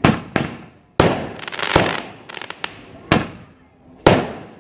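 Fireworks going off: a run of sharp bangs spread through the few seconds, with a stretch of dense crackling beginning about a second in and a quick cluster of pops just after it.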